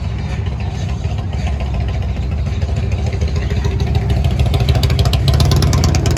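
A car engine running close by with a low rumble, getting louder over the last couple of seconds.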